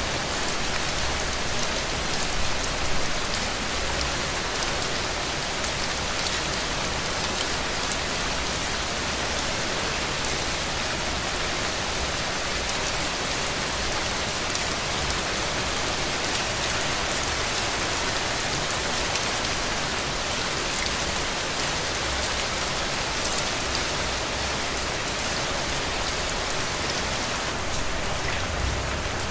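Heavy rain falling steadily: an even hiss of rain with many small drop hits scattered through it.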